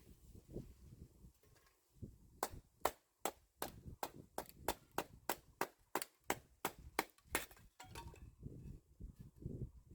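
A hammer striking in a quick, even run of about fifteen blows, roughly three a second, like nails being driven into the wooden parts of a beehive. A low rumble sits under the quiet stretches before and after.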